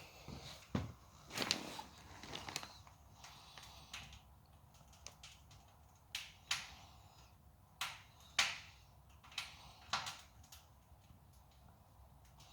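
Wood fire crackling in a cast-iron stove: irregular sharp snaps and pops, about a dozen, over a faint steady background.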